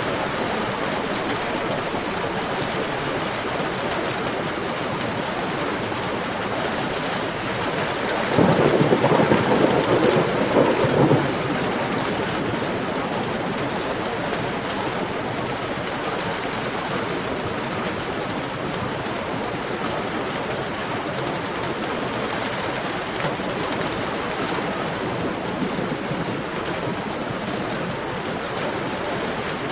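Heavy rain falling steadily. About eight seconds in there is one louder burst, strongest in the low and middle range, lasting about three seconds.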